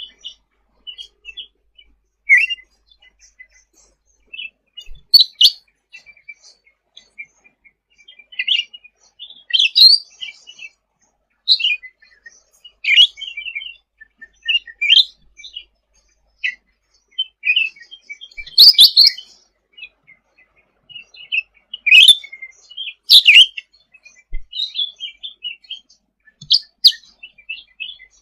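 Cucak ranting songbird singing actively: short, sharp chirps and quick up- and down-sliding whistled notes in bursts, broken by brief pauses, with a few louder, harsher notes past the middle.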